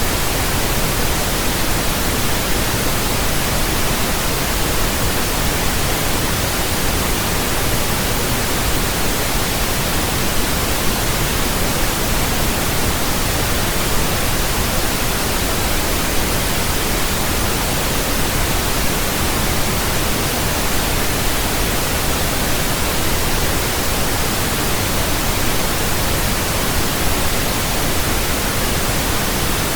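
Synthetic pink noise: a steady, even hiss spread across all frequencies with a soft low rumble beneath, unchanging throughout.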